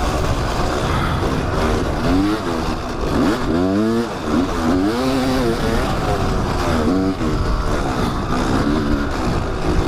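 Dirt bike engine revving up and easing off again and again while riding a trail, its pitch climbing and dropping every second or two. Wind rushes steadily over the microphone.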